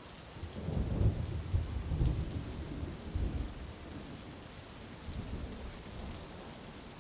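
Thunder rumbling in low rolls over a steady hiss of heavy rain. The thunder starts about half a second in, is loudest around one to two seconds, and dies away a few seconds later.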